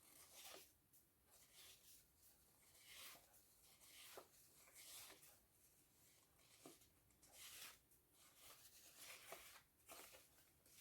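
Faint scratchy strokes on paper, roughly one a second, with a few light taps between them.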